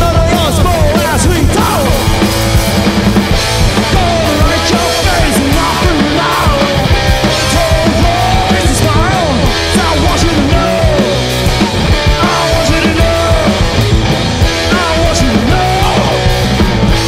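A garage-punk rock band playing loud, live, with drums and bending lead lines over a heavy low end.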